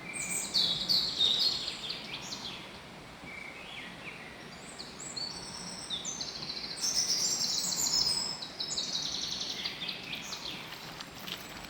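Songbirds singing: bursts of rapid high trills and chirps, loudest about a second in and again past the middle, over a steady faint background hum.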